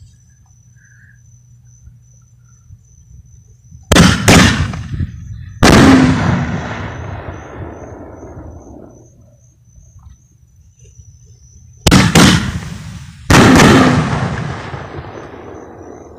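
Consumer aerial firework shells fired one after the other, twice. Each time there is a sharp double crack at launch, then a loud burst about a second and a half later that rumbles and echoes away over several seconds.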